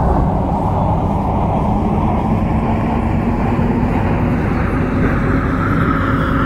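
MTR C-Train electric multiple unit pulling away under power: the traction motors whine, slowly rising in pitch as the train gathers speed, over a steady rumble of the wheels on the track.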